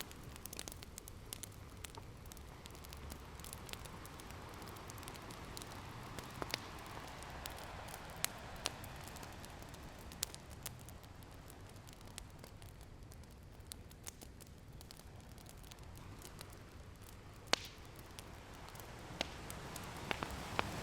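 Open wood fire crackling with scattered sharp pops, over the soft wash of ocean waves that swells and recedes, building again near the end.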